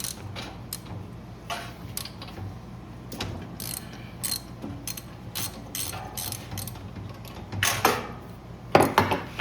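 Socket ratchet clicking in short, uneven runs while loosening the spark plug from a small generator engine, with a couple of louder knocks near the end.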